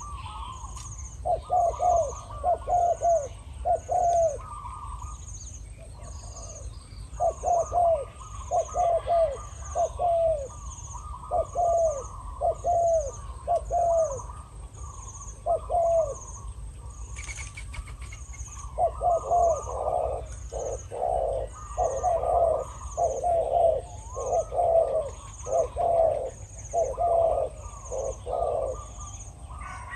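Spotted doves cooing in repeated phrases of several coos, a caged decoy and a wild male with a deep, very loud voice calling against each other; the cooing comes thicker over the second half. A faint high chirp repeats about once a second behind them.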